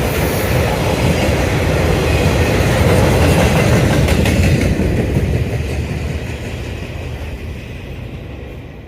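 Freight train cars rolling past, the wheels clattering on the rails; the sound fades away over the last few seconds.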